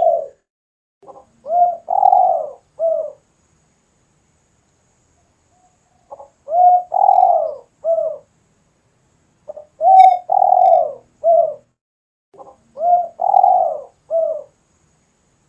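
Spotted dove (tekukur) cooing persistently. It gives four phrases a few seconds apart, each a short lead-in note followed by a longer coo and a short final coo.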